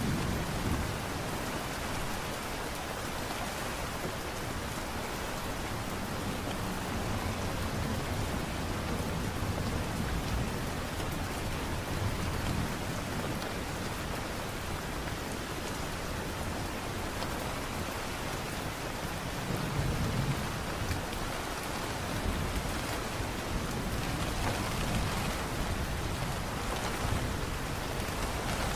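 Steady light rain, an even hiss of drops with no break, under low rumbles that swell up several times.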